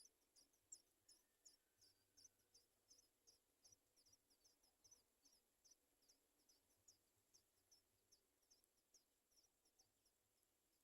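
Sooty chat nestlings begging for food: a faint, rapid string of short high chirps, about four a second.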